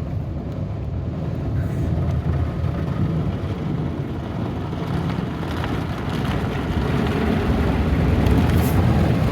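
Automatic car wash heard from inside the car: the large rotating brushes and water working over the car make a steady low noise that grows louder toward the end.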